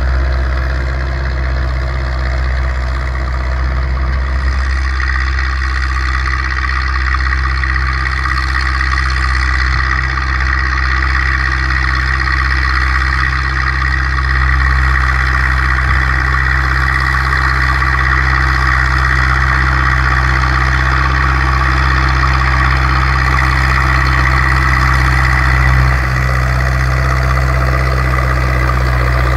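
Zetor 6245 tractor's four-cylinder diesel engine running steadily under load while pulling a three-furrow reversible plough, with a slight change in tone about four and a half seconds in.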